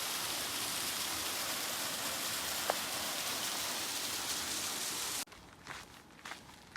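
Rushing water of a mountain stream, a loud steady hiss that starts and cuts off abruptly about five seconds in, followed by a few quiet footsteps.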